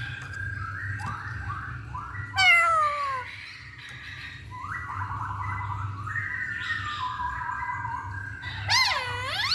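Poksay hongkong (masked laughingthrush) singing a varied run of whistled phrases. A loud falling slur comes about two and a half seconds in, and a loud whistle that dips and rises again comes near the end.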